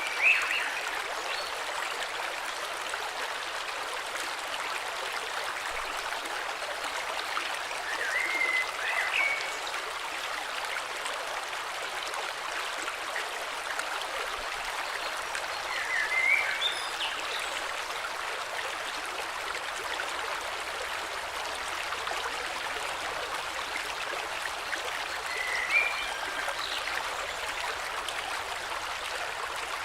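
Steady rush of a flowing river. Over it, a bird gives a short chirping call four times, about every eight seconds.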